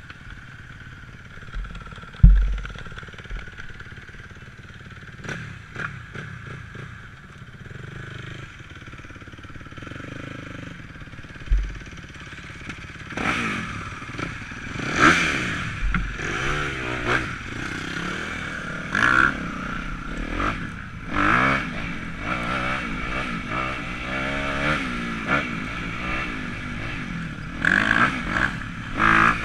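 Motocross dirt bike engine being ridden, its revs rising and falling over and over from about halfway through. There are a few sharp thumps in the quieter first half, the loudest about two seconds in.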